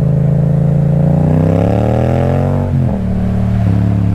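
Yamaha MT-07's parallel-twin engine through an Akrapovic titanium exhaust, revving up as the bike accelerates for about two seconds, then dropping sharply at a gear change a little before three seconds in and running on steadily at lower revs.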